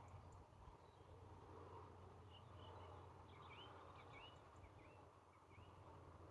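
Faint outdoor ambience with a run of short, faint bird chirps through the middle.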